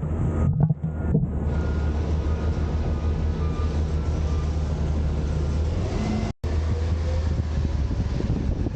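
Autocar garbage truck with a Heil Freedom half-pack body running steadily: a constant low engine drone under a haze of mechanical noise. A split-second gap cuts the sound about six seconds in.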